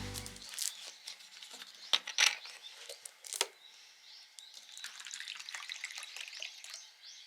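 Wood fire crackling, with irregular small ticks and a few louder sharp pops in the first half.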